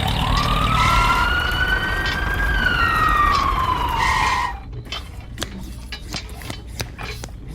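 Wailing fire-truck siren sweeping slowly up and then back down in pitch, cut off suddenly a little over halfway through. After it come scattered light clicks and knocks over a low rumble.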